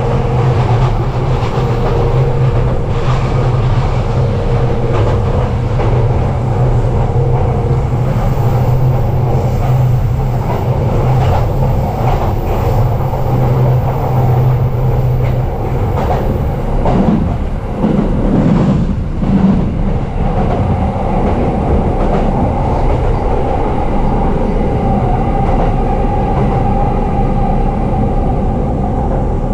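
JR East E233-series electric train running along the track, heard from inside the carriage: a steady rumble of wheels on rail, with a brief change in the sound about seventeen seconds in.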